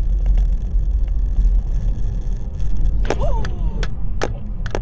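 A moving car with a loud, steady low rumble of road and engine noise. Several sharp knocks come in the last two seconds.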